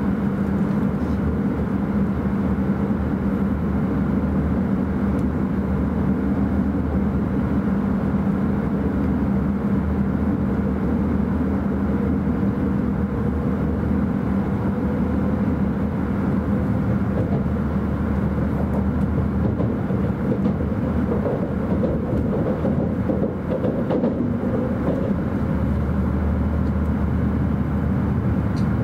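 E5 series Shinkansen cabin noise while the train runs: a steady rumble and rush with a constant low hum, heard from inside the passenger car.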